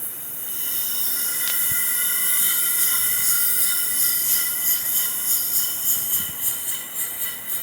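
Small steamboat engine with a piston valve being run: a steady hiss with a few high ringing tones, and a quick, even beat that comes in after about three seconds.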